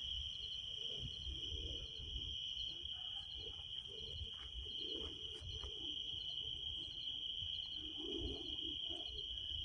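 Evening insects in a pine forest: a steady high-pitched insect trill with short chirps repeating about twice a second above it, over a low rumbling background.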